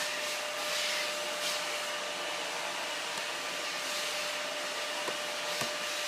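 A household appliance motor running steadily: an even whooshing hiss with a constant hum tone. A couple of faint clicks come near the end.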